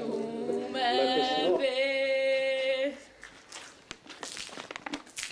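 A voice singing a line that ends in a long held note, stopping about three seconds in; faint scraping and clicking follows.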